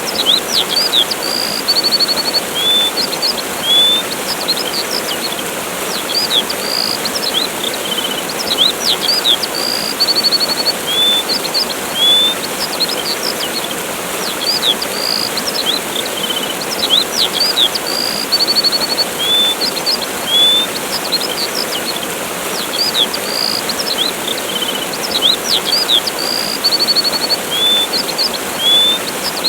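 Steady rush of a waterfall with small songbirds chirping over it: short high chirps, whistled notes and brief trills. The same run of bird calls repeats about every eight seconds.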